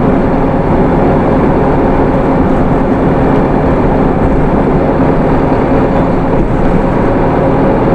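Hino Rainbow II city bus under way, heard from inside: its Isuzu 4HK1 four-cylinder diesel running at a steady speed with a steady drone, over road and tyre noise.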